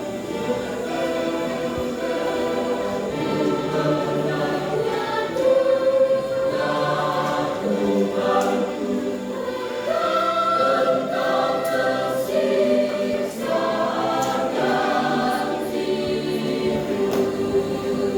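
Church choir singing, many voices holding and moving through sustained notes together.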